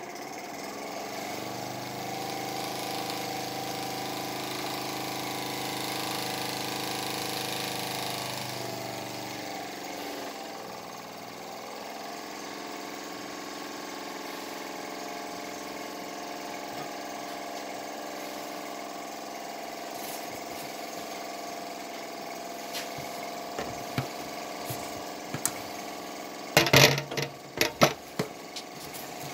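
Small wobbler (oscillating-cylinder) steam engine running steadily under steam, with a hiss. About ten seconds in, the lowest hum and the hiss drop away while the engine runs on. Near the end comes a run of sharp clattering knocks, the loudest sounds here.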